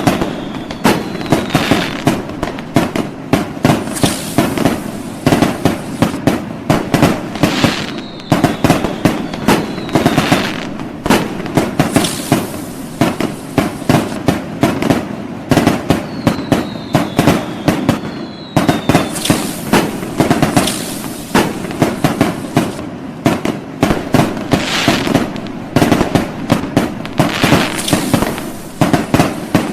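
New Year fireworks going off in a dense, unbroken barrage of bangs and crackles, with no let-up. A few short, falling whistles sound over the bangs near the start, about eight seconds in and again about sixteen seconds in.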